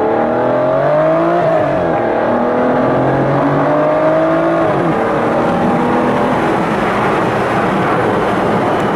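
Aston Martin DBS's V12 engine accelerating hard, its pitch climbing, with an upshift about two seconds in and another about halfway through, then running more steadily.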